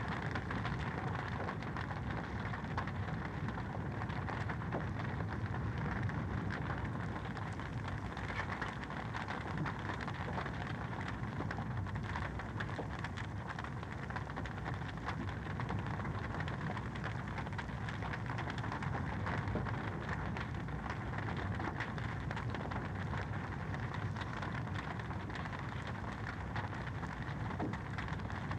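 Wood fire in a fireplace crackling steadily: a dense run of small pops and snaps over a constant low hiss.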